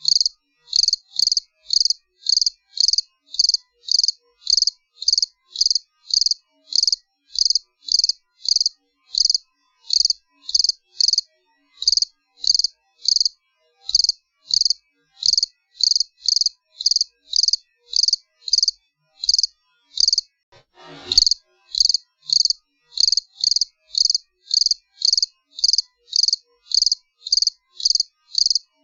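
A cricket chirping steadily, short high chirps at about two a second with silence between. About 21 seconds in, a brief falling swoosh sounds.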